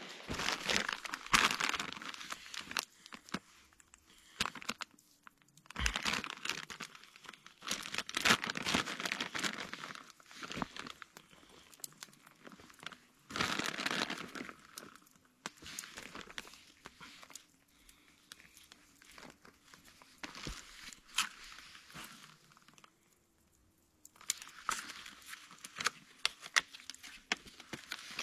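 Repeated bouts of crinkling and rustling with sharp little clicks, each lasting a second or three, with quieter pauses between them.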